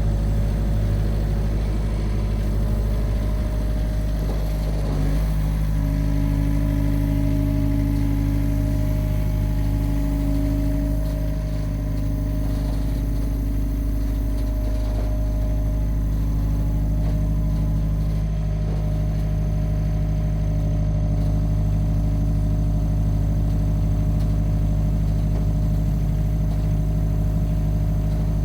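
John Deere 50P compact excavator's diesel engine running steadily at a low, even pitch, its tone shifting slightly for a while partway through.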